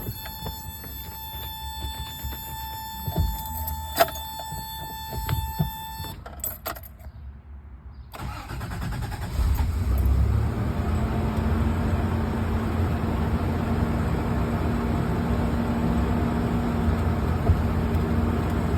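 1989 Toyota 4Runner engine cold-started after sitting about two weeks: a steady electronic tone with a few clicks for the first six seconds, then the engine cranks and catches about eight seconds in and settles into a steady idle.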